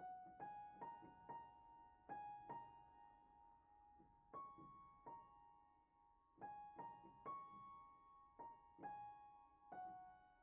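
Quiet piano music: a simple melody of single struck notes, played in short phrases.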